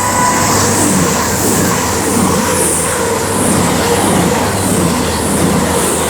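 Two coupled CrossCountry diesel multiple units, a Class 220 Voyager and a Class 221 Super Voyager, passing through the station at speed: a loud, steady rush of wheels and underfloor engines, with a regular beat about three times every two seconds as the wheels go by.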